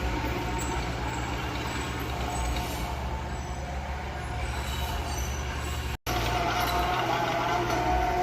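Diesel engine of heavy earthmoving machinery running steadily with a low rumble. It breaks off for an instant about six seconds in, then carries on with a wavering whine over the rumble.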